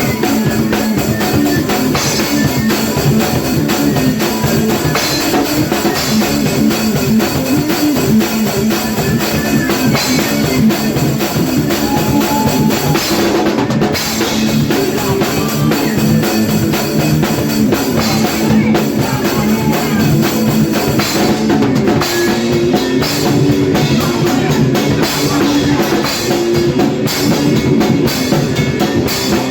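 Hardcore punk band playing an 80s-style song: electric guitar over a drum kit with heavy bass drum, loud and without a break.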